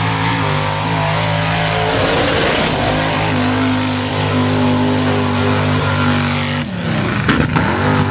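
Mega truck engine at full throttle, its pitch climbing and then held high and steady for about six and a half seconds, then dropping off and blipping up and down near the end.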